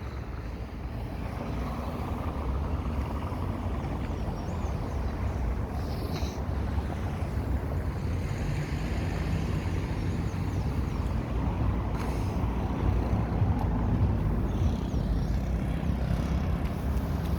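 Road traffic on a busy city avenue: cars and trucks running past in a continuous low rumble that grows gradually louder.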